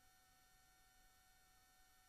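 Near silence: a faint hiss with a few very quiet steady electronic tones.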